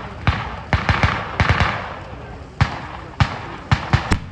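Firecrackers going off in an irregular string of sharp bangs, about a dozen in all, with a crackling hiss among them about a second and a half in.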